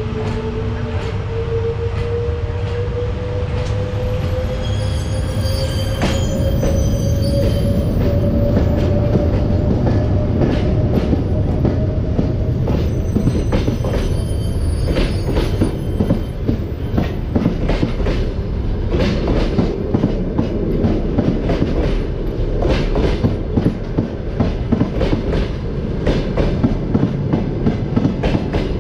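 Passenger train pulling out behind an EP1M AC electric locomotive. The locomotive's whine rises slowly in pitch as it gathers speed and passes. Then the coaches roll by with a steady clatter of wheels over rail joints, which quickens as the train speeds up.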